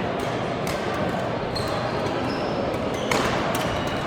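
Badminton rackets hitting a shuttlecock in a large sports hall: a handful of sharp smacks, the loudest about three seconds in, with short high squeaks over a steady din of the hall.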